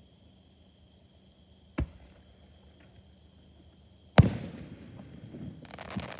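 Two aerial firework shells bursting, the second much louder with a rumbling tail, followed near the end by a crackling burst. Insects chirr steadily throughout.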